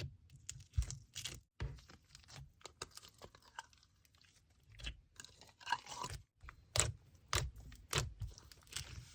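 A box of slime products being unpacked by hand: irregular clicks, crinkles and crunchy crackles, with a few sharper snaps about a second in and again near the end.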